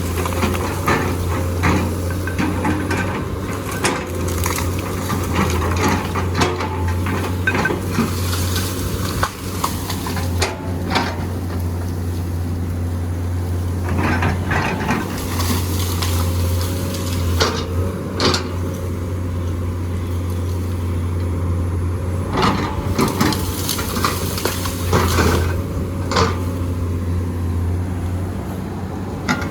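Komatsu PC200 excavator working: its diesel engine runs with a steady low drone while the steel bucket scrapes and clanks against rock and gravel, giving irregular sharp knocks throughout.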